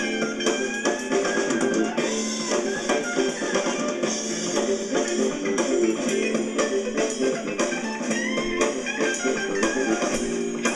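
Electric blues band playing an instrumental break: electric guitar from a Tokai copy of a '63 Fender Stratocaster plays lead lines with bent notes over bass and drums.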